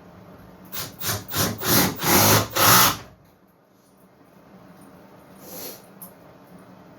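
Milwaukee M12 FUEL SURGE hydraulic impact driver driving a screw into wood in about six short trigger bursts that grow longer, stopping about three seconds in. A short, softer noise follows a couple of seconds later.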